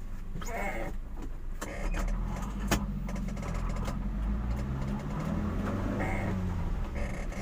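Motor vehicle engine running with a steady low rumble, with a few short clicks and knocks over it.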